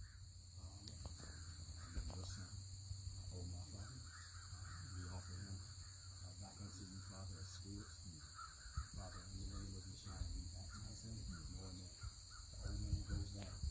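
Faint outdoor ambience: a steady high insect drone, with crows cawing in the distance and faint voices.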